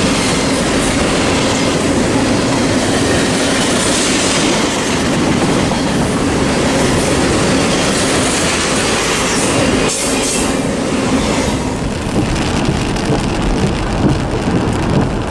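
Norfolk Southern freight train, an ethanol train, rolling past close by: a steady loud rumble of wheels on rail with clickety-clack over the rail joints, easing a little near the end.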